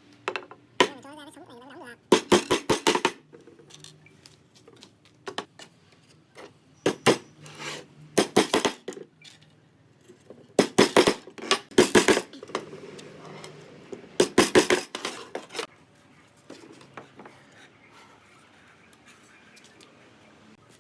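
Several bursts of rapid, sharp knocking, each a quick run of strikes lasting one to two seconds, with short pauses between the bursts.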